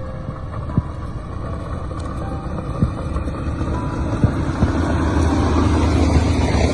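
Engine of a heavy snow-clearing machine rumbling, growing louder over the last couple of seconds, with scattered knocks, under soft background music.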